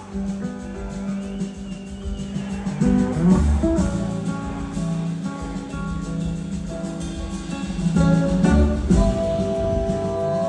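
Live blues-rock band music with an electric slide guitar lead playing sustained notes that glide up and down in pitch over bass and drums.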